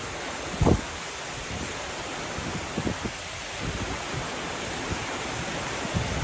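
Heavy rain falling steadily, a constant hiss. Gusts of wind buffet the microphone in short low rumbles, the loudest about a second in.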